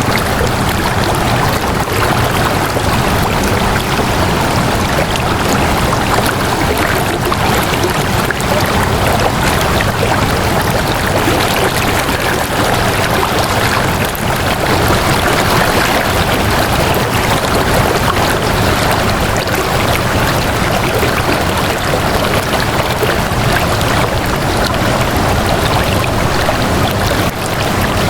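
Flowing water rushing steadily, an even wash of sound with no breaks.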